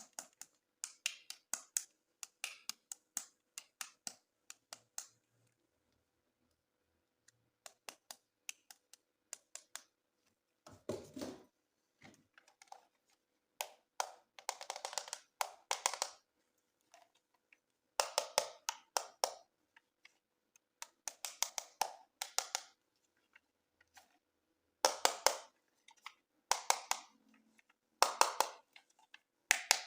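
Clusters of short, sharp clicks and a few scraping rustles of plastic toy parts and packaging being handled, with silent gaps between.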